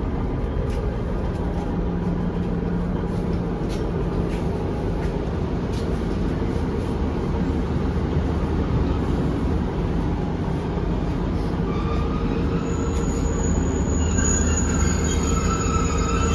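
A British Rail Class 150/1 diesel multiple unit on the move: a steady low rumble of the underfloor diesel engine and wheels on the rails. From about twelve seconds in, a high metallic squeal joins in and grows stronger toward the end.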